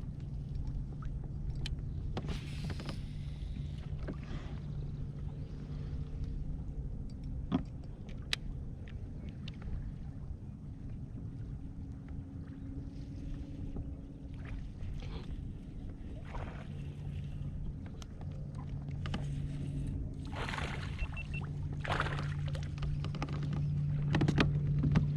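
Sounds of a pedal fishing kayak on the water: a steady low hum with scattered knocks and clicks, and several louder rushing noises near the end.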